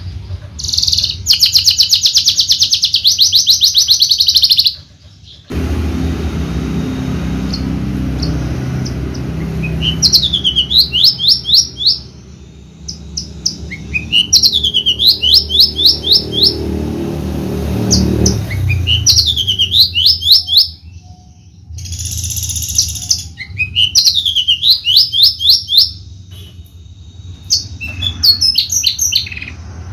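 Javan bush lark (branjangan) singing: a fast, loud trill near the start, then repeated phrases of rapid notes that sweep down and back up in pitch, a few seconds apart. A low rumble of background noise runs underneath for part of the time.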